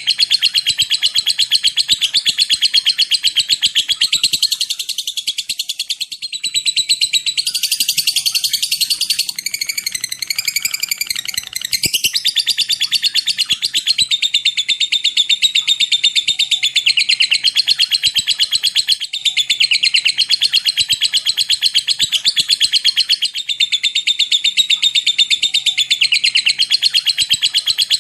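Lovebird giving a long, continuous, very rapid chattering trill (the 'ngekek' song), with a short stretch of wavering whistled notes about eight to twelve seconds in.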